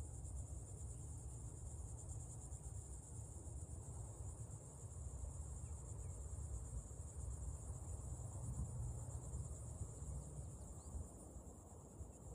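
Steady, high-pitched insect chorus that holds on without a break, over a low rumble.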